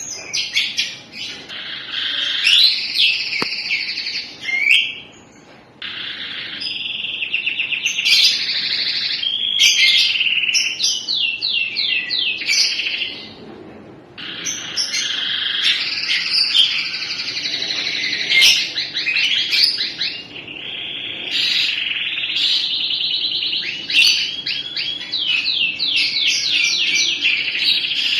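Domestic canary singing its long, continuous song of rapid rolling trills and warbled phrases, broken by two short pauses.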